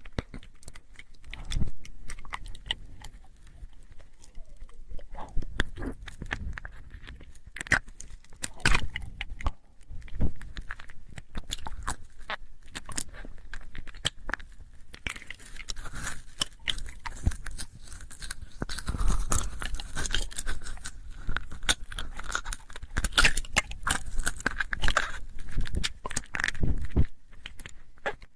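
ASMR mouth sounds: a rapid, irregular run of wet clicks and smacks from lips and tongue, growing denser from about halfway through.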